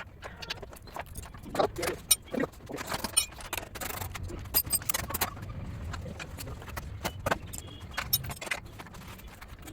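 Irregular metallic clinks and knocks over a steady low rumble, with a cluster of louder knocks about two to three seconds in.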